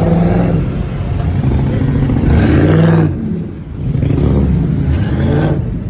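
Car engine revving hard several times, its pitch rising and falling with each rev.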